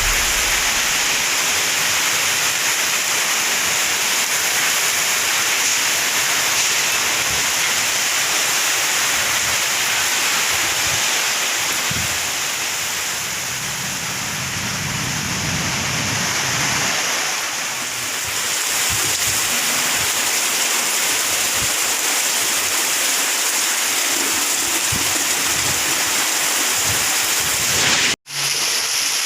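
Heavy rain pouring down steadily in a storm, a dense continuous hiss that swells and eases a little; the sound cuts out for an instant near the end.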